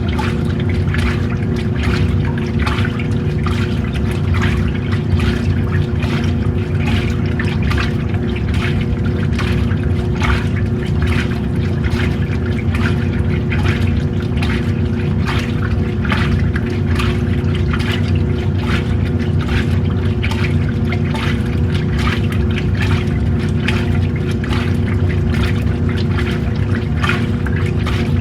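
Old washing machine running through its wash. A steady motor hum sits under continuous, irregular sloshing and splashing of water and clothes in the tub.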